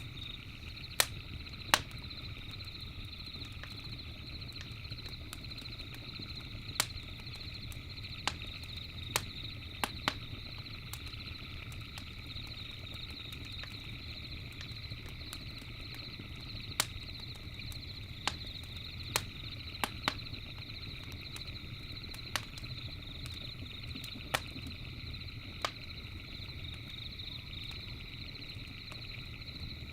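Campfire crackling, with about a dozen sharp, irregular pops over a low steady rumble of the fire. Behind it runs a steady high-pitched chorus of night creatures.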